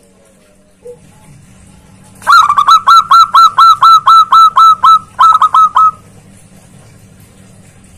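Zebra dove (perkutut) calling: a fast run of about a dozen loud, clipped, repeated notes starting about two seconds in, a brief break, then a few more.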